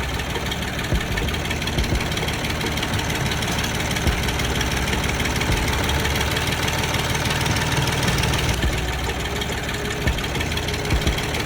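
A small motor running steadily, an even mechanical whirr with a low rumble underneath.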